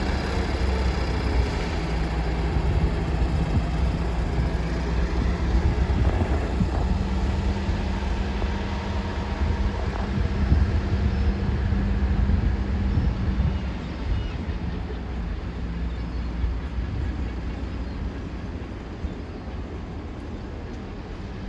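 Class 56 diesel locomotive 56049 running its engine as it departs, a steady deep drone that gradually fades over the second half as it moves away.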